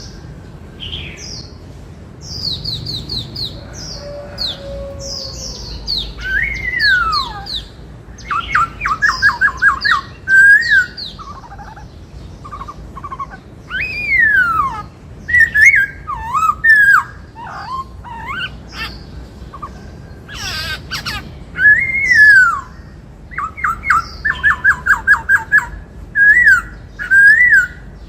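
Black-throated laughingthrush singing loudly: varied whistled phrases with sweeping glides, high chirps and quick runs of repeated notes.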